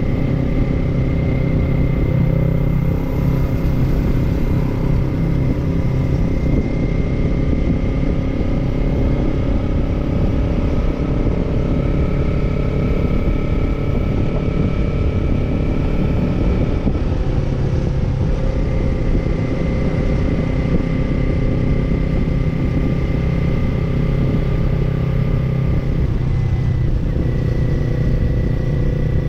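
Kawasaki parallel-twin motorcycle engine with an aftermarket slip-on exhaust, running at steady riding revs, heard from the bike. Its note shifts in pitch a few times, around 3, 17 and 27 seconds in, as the revs change.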